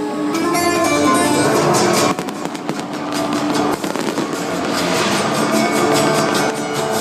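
Loud music from a show's sound system, with the pops and crackle of fireworks going off throughout.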